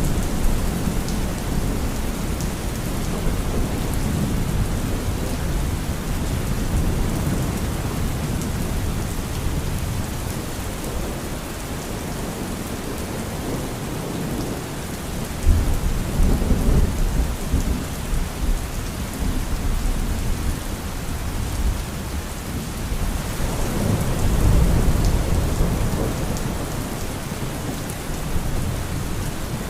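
Thunderstorm: steady rain hissing, with low thunder rumbling at the start, a sudden peal of thunder about halfway through that rumbles on for a few seconds, and another roll of thunder swelling up a little later.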